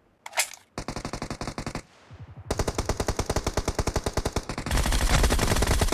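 Video-game automatic gunfire, rapid and evenly spaced at about a dozen shots a second: a burst of about a second, a short pause, then a long continuous burst from about two and a half seconds in.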